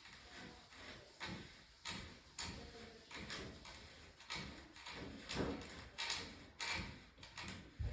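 Wooden furniture panels and hardware knocking and shifting as they are handled and fitted during bed assembly: a string of irregular knocks and scrapes, louder in the second half.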